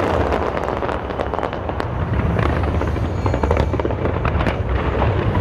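Large New Year's fireworks display: a dense, continuous crackling and popping of many small bursts over a steady low rumble of booming shells.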